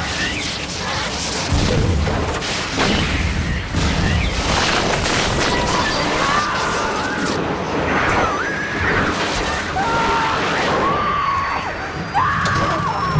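Movie sound effects of an airliner breaking apart and exploding in flight: repeated crashes and booms over a low rumble, with people screaming in the second half and dramatic music underneath.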